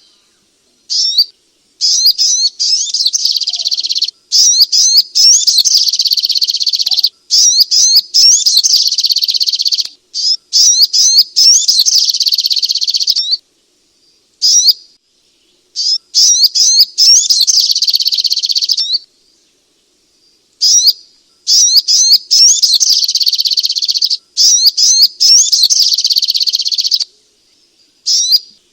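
Sogok ontong (spiderhunter) song: long bouts of rapid, high-pitched chattering notes, each bout lasting a few seconds with short pauses between.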